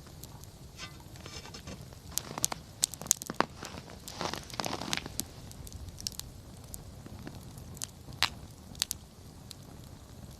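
Wood campfire crackling, with irregular sharp pops and snaps over a low steady rustle of burning. The pops cluster in the first half, with a couple more near the end.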